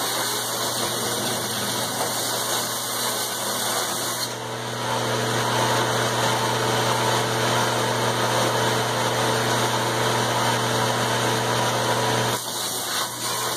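Steady shop machine running with a low hum and a noisy wash. Extra steady tones join about four seconds in and drop away about twelve seconds in.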